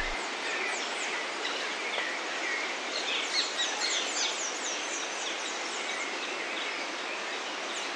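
Many high, quick bird chirps, each sweeping down in pitch, over a steady outdoor hiss; the chirps grow thicker a few seconds in.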